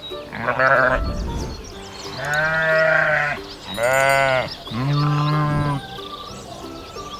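Sheep bleating four times in a row, each call a wavering, drawn-out baa, over soft background music.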